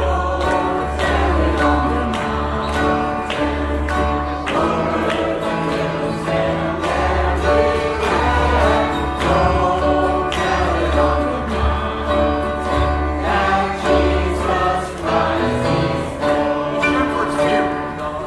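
A group of people singing a Christmas carol together, with instrumental accompaniment and a bass line under the voices.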